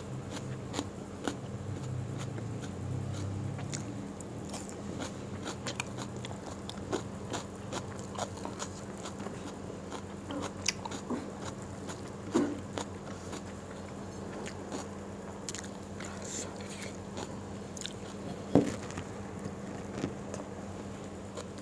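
A person eating rice and fried food by hand: close chewing and biting with many small wet mouth clicks, and one sharper click about 18 seconds in.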